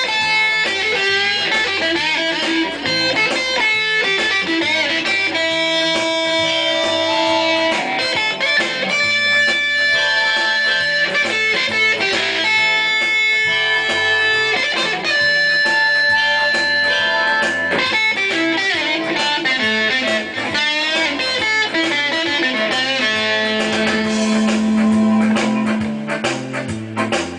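Guitar music: a melody of held, sustained notes over changing bass notes, fading out near the end.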